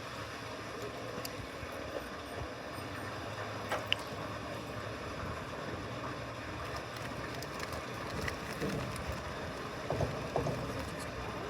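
Steady outdoor background hiss and low hum, with a brief faint high chirp about four seconds in and a few soft knocks near the end.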